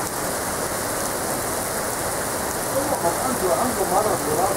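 Heavy rain falling steadily on a paved street and parked cars in a severe thunderstorm, an even hiss of downpour.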